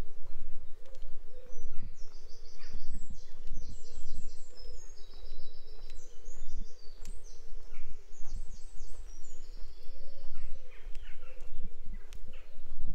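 Songbirds singing: fast trills of high, evenly repeated notes, one run after another, with lower, shorter calls near the end. Footsteps thud at a walking pace throughout, over a low outdoor rumble.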